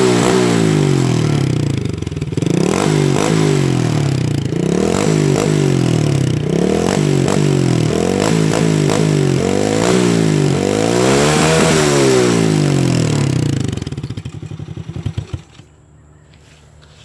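Engine with a shortened exhaust being revved up and down over and over, each rev rising and falling in pitch. Near the end it winds down with a few last pulses and shuts off.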